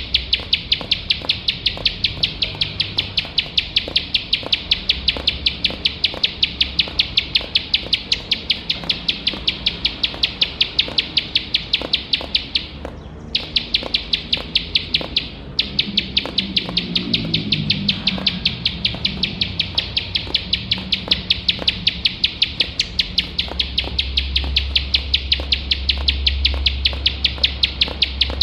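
Ciblek sawah (plain prinia) calling nonstop in a fast, even series of high, sharp notes, about three a second, broken twice briefly near the middle.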